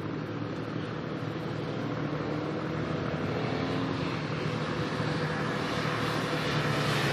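Engines of race motorcycles and a following team car running steadily, growing louder as the convoy approaches on a wet road.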